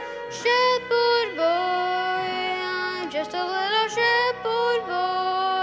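A solo voice singing a slow, tender song with held notes that slide between pitches, over soft steady instrumental accompaniment.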